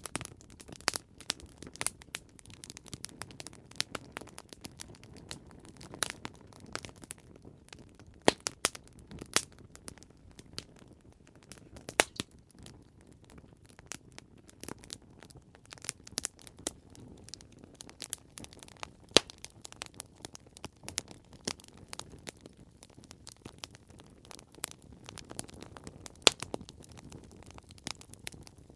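Wood campfire crackling: irregular sharp pops and snaps over a low steady rush of burning.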